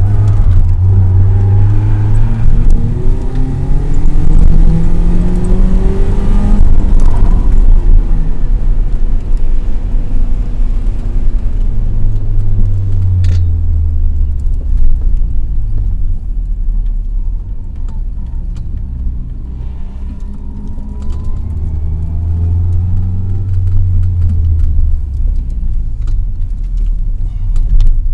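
BMW's engine heard from inside the cabin as the car drives at low speed: it picks up through the gears over the first several seconds, then runs with a steady low rumble, with another light pull near the end.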